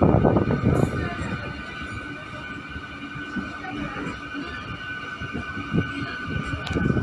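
MEMU electric train running, its wheels rattling and clattering on the track, loudest at the start and again near the end with a quieter stretch between, over a steady high whine.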